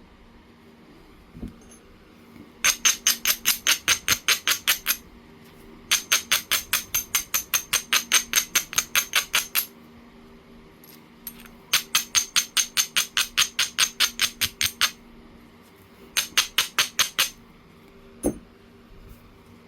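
Stone abrader rubbed back and forth over the edge of a jasper piece, grinding the platform in four quick runs of about five scratchy strokes a second, with a single sharp click near the start and another near the end.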